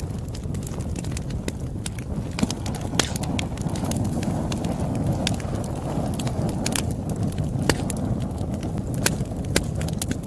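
Campfire burning with a steady low rumble and irregular sharp crackles and pops, a few louder snaps among them.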